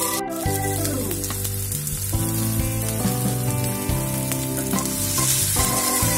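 Leftover-rice batter sizzling as it fries in hot oil in the cups of an appe pan, over background music. There is a sharp click about a quarter second in.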